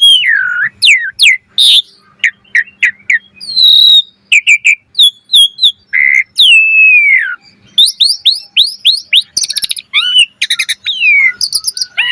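Pied starling (jalak suren) singing a fast, varied song of whistles, downward-sliding notes, short clicks and rapid trills in quick succession.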